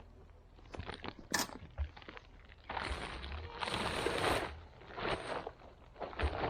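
Garden soil crunching and scraping as it is worked and broken up by hand, in several noisy bursts, with a few sharp clicks in the first second or so.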